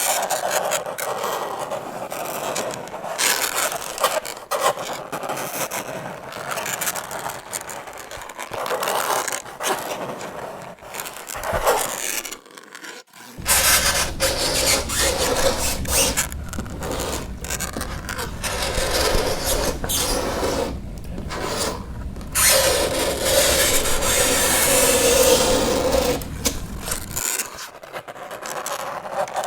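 Fingernails scraping and screeching across a chalkboard in uneven strokes, with a short break about halfway through. A low hum runs under the second half, and there is a longer, steadier screech a few seconds before the end.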